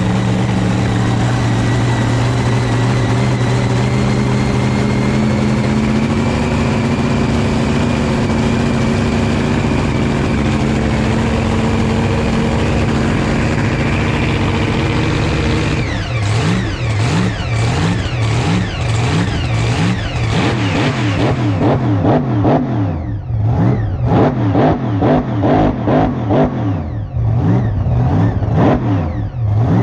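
A 3000 hp Camaro burnout car's engine running steadily, its pitch creeping up a little. About sixteen seconds in it starts being revved up and down in quick repeated blips.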